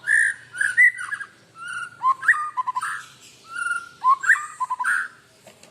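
White-rumped shama singing loud, varied whistled phrases with quick stuttering notes, three bursts about two seconds apart.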